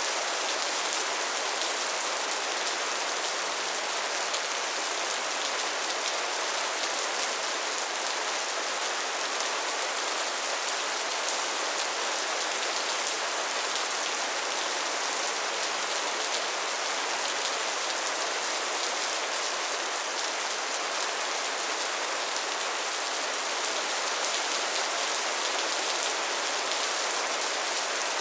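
Soft, steady rain falling on a surface, a continuous even patter with no thunder or other sounds.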